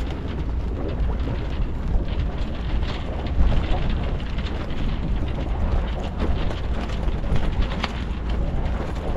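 Wind buffeting the microphone aboard a sailing yacht under way: a steady rushing noise with a heavy low rumble.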